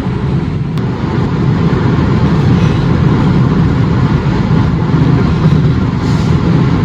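Steady engine and tyre road noise inside a car cruising at highway speed.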